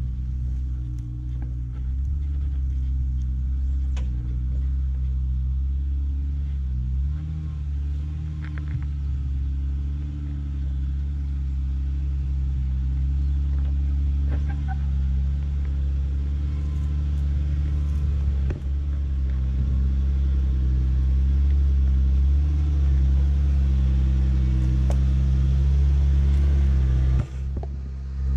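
Jeep engine running steadily while driving a 4x4 trail. It gets a little louder in the second half and briefly drops away about a second before the end. A few sharp knocks sound here and there.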